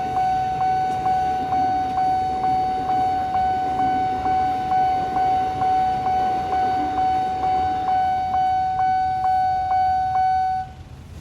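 Nippon Signal railroad crossing warning bell ringing, one electronic ding about twice a second, over a low rumble. It cuts off near the end as the warning ends.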